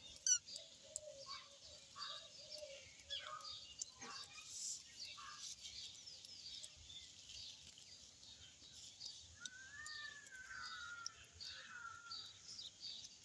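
Birds chirping and twittering in quick short notes, with a few lower calls early on and one longer, arched call about ten seconds in.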